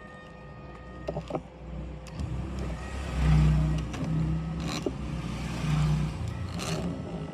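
A low rumble that swells about three seconds in and fades near the end, with a few light clicks over it.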